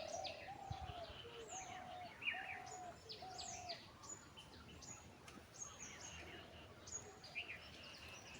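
Birds chirping: many short, high chirps throughout, with a lower note repeated about every half second during the first few seconds, then thinning out.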